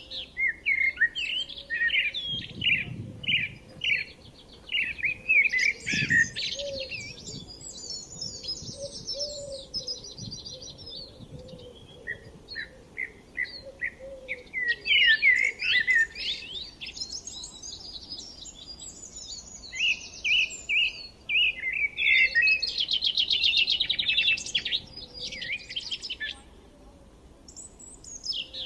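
Songbirds singing: phrases of quick chirps and fast trills, separated by short pauses.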